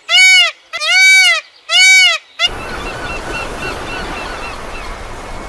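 An animal giving three identical calls, each about half a second long and rising then falling in pitch, spaced under a second apart. About halfway through the calls stop and a steady hiss of noise takes over, with faint high chirps in it.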